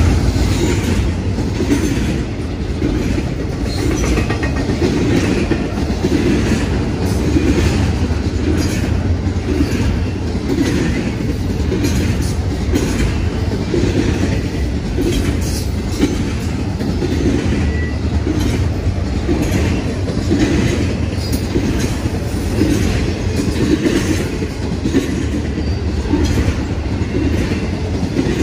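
Double-stack intermodal freight train rolling past close by: a steady heavy rumble of steel wheels on rail, with a regular clickety-clack about once a second as wheelsets cross rail joints.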